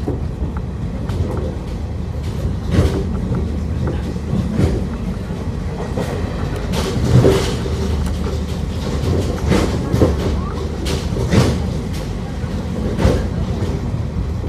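Passenger train running at speed, heard from inside the carriage: a steady low rumble with sharp clacks of the wheels over rail joints every second or two.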